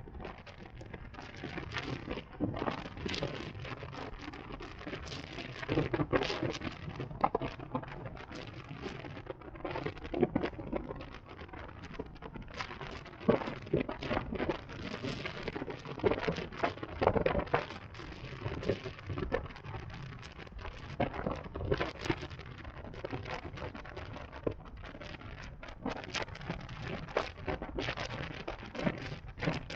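Irregular crackling noise on the camera microphone while riding an electric motorcycle, rising and falling in uneven gusts.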